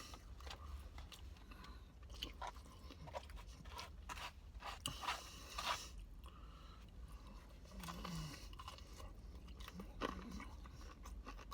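A person chewing and biting food close to the microphone: scattered crunches and mouth clicks, with a denser run of crunching about five seconds in.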